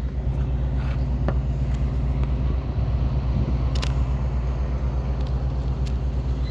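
Engine running steadily with a low, even hum, with a few faint clicks over it.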